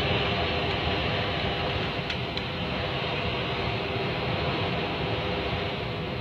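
Strong storm wind making a steady rushing noise, with a few faint clicks.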